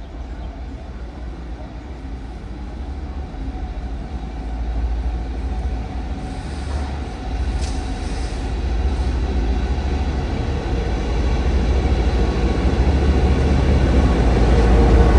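Taiwan Railway train approaching, its low rumble growing steadily louder.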